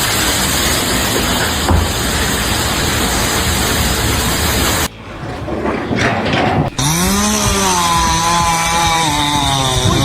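Loud, steady machine noise for about five seconds. After a brief drop, a small motor speeds up and then runs at a steady pitch.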